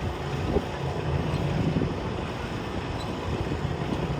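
Garden pulling tractor's engine running steadily, a rough low drone.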